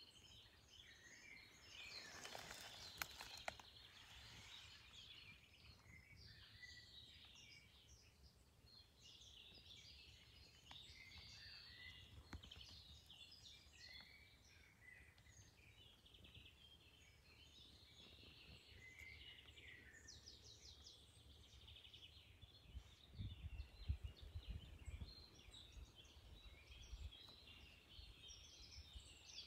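Faint birdsong: several small songbirds chirping and singing. A few low rumbling bumps sound about four-fifths of the way through.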